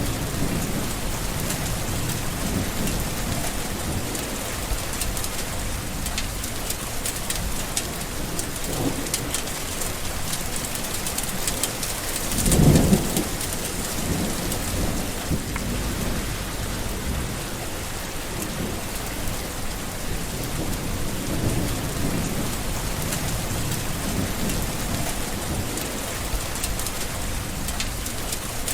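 Steady heavy rain falling, with rolls of thunder rumbling low beneath it; the loudest clap comes a little before the middle.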